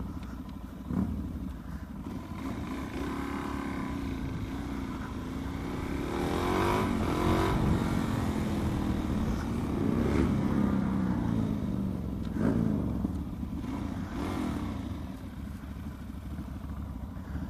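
Motorcycle engine running while riding, its revs rising and falling several times over a steady low rumble.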